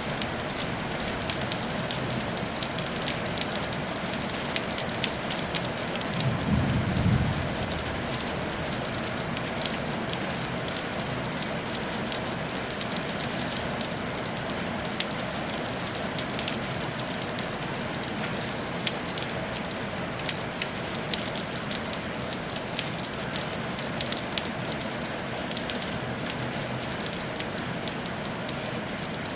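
Steady rain falling on a tile roof, a dense even patter with many small drop ticks. About six seconds in, a brief low rumble swells for a second or so.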